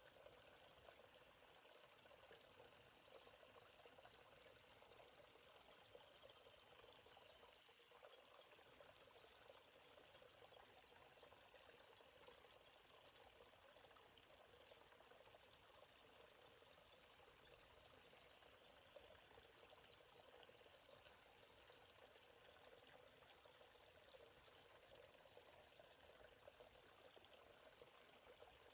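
A steady, high-pitched chorus of insects chirring, with a faint trickle of a forest stream underneath.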